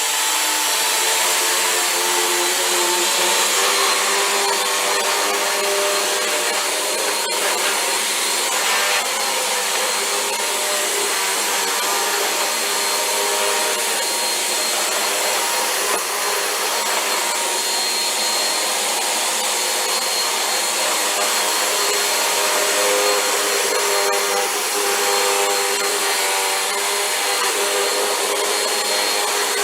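Vacuum cleaner running steadily, its motor pitch wavering slightly.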